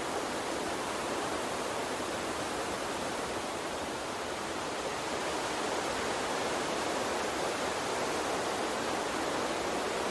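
A small stream of water flowing, a steady even rush with no distinct splashes or drops.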